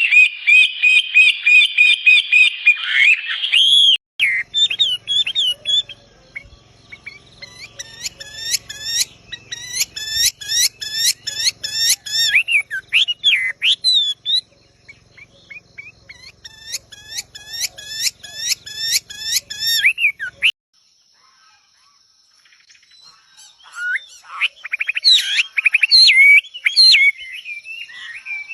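Bird song in several passages that cut abruptly from one to the next. It opens with a fast trill, then a call repeated about twice a second with each note sweeping upward, then a short quiet gap before busy, varied chirping.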